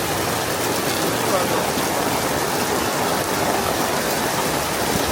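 Heavy rain pouring down in a steady hiss, with faint voices in the background.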